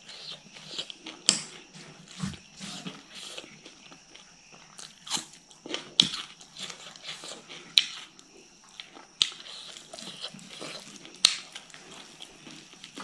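Close-miked chewing and crunching of raw singju salad and fish curry eaten by hand, with several loud, sharp wet clicks every second or two.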